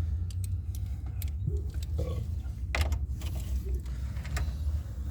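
Ratchet and 8 mm socket working the radio's mounting fasteners in a Ford F-150 dash, giving irregular small metal clicks and knocks, the loudest a little under three seconds in, over a steady low rumble.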